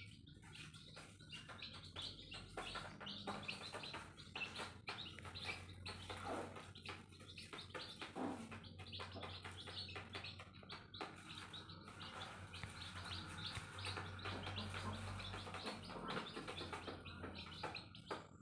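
Newborn chicks peeping: many short, high cheeps overlapping in a continuous chorus.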